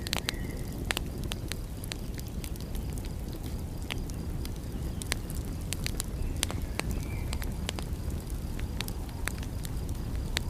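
Wood fire crackling, with frequent irregular sharp pops and snaps over a low, steady rumble.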